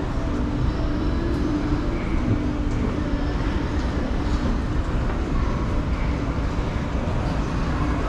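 Steady low rumble of walkway ambience with an indistinct murmur of distant voices.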